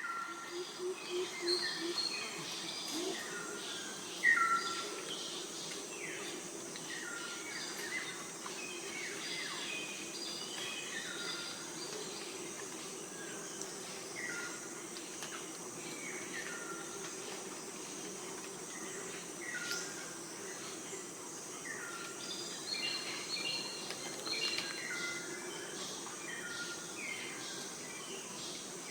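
Wild birds calling, mostly short falling chirps repeated every second or two, over a steady background hum of outdoor ambience.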